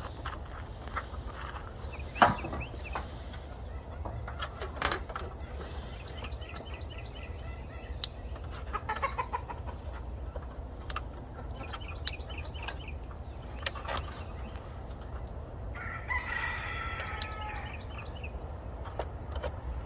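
Chickens clucking, with a rooster crowing once for about two seconds near the end. Scattered clicks and knocks run under them, with one sharp knock about two seconds in.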